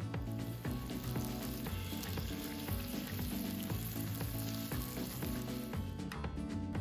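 Food sizzling as it fries in a hot pan, over background music. The sizzling stops about six seconds in, and the music carries on.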